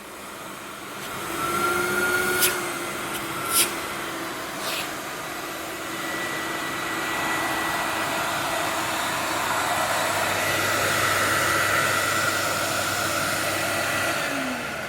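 Pullman S13 vacuum cleaner running, a steady whine over the rush of suction, with a few sharp clicks in the first five seconds. Near the end the motor starts to wind down in pitch.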